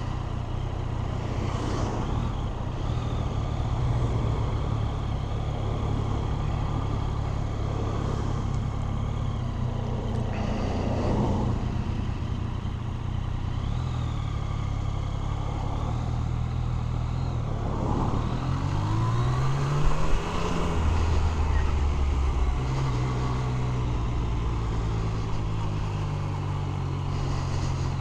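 Yamaha FZ-09's inline three-cylinder engine running during a ride, over a steady rush of wind noise. About two-thirds of the way through, the engine pitch climbs as the bike accelerates.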